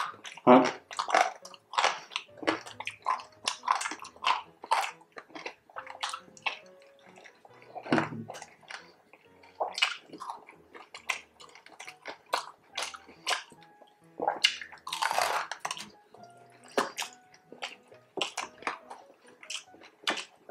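Close-miked eating: crispy pork belly and rice being bitten and chewed, a dense run of wet mouth clicks, smacks and crunches. A longer, louder noisy burst comes about fifteen seconds in.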